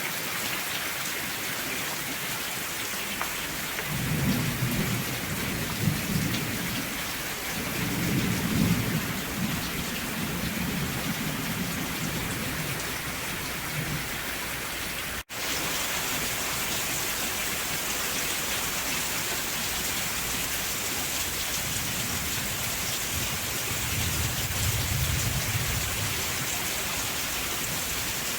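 Steady rainfall hissing on surfaces, with low rumbles of distant thunder rolling in a few seconds in, again soon after, and once more near the end.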